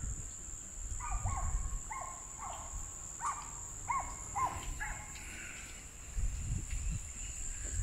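A bird calling a series of about seven short, arched notes over a few seconds, over a steady high-pitched drone of insects such as crickets. A low rumble comes in near the end.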